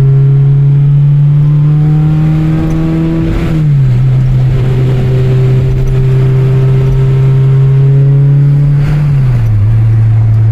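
Honda K24 four-cylinder engine pulling steadily with its pitch slowly climbing, then dropping sharply twice, about a third of the way in and near the end, as the car shifts up a gear.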